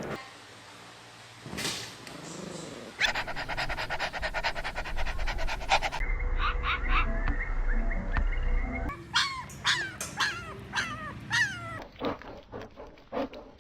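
Puppies whimpering and yipping in short, high calls that drop in pitch, with a stretch of quick, rapid panting or yapping earlier on; several separate clips cut together.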